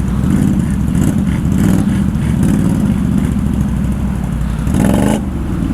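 ATV engine running steadily under the rider, with a brief louder burst near the end.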